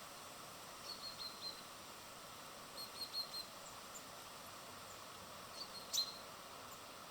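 Small birds chirping: two quick runs of about four short, high chirps, then a sharper chirp with a click about six seconds in, over a steady hiss.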